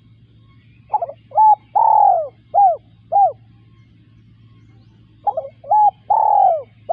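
Spotted dove cooing: two phrases of about five short, arching notes each, about four seconds apart, the third note of each phrase held longest.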